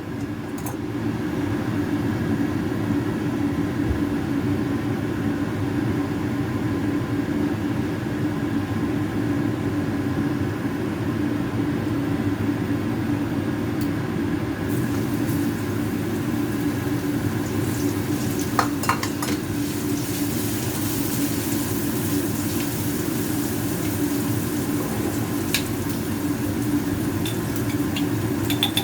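Pork chops frying in hot oil in a pan, a steady sizzle that grows brighter about halfway through, with a steady low hum underneath and a few light clinks of a utensil against the pan near the end.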